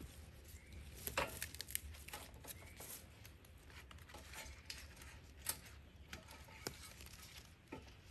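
Scattered light clicks and knocks, a few sharper ones about a second in and midway, over a faint steady low hum; the chainsaw is not running.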